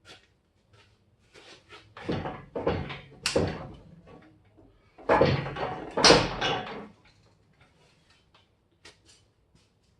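Heavy welded steel boom assembly being shoved along the truck frame, metal scraping and knocking in two rough bouts of about two seconds each, as the boom shifts a couple of inches.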